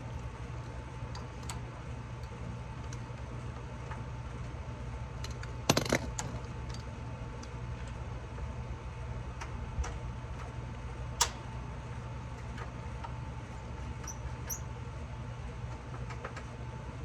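Steady low mechanical hum with a faint steady whine, broken by a few sharp metallic clicks and clinks, the loudest cluster about six seconds in and single clicks near ten and eleven seconds.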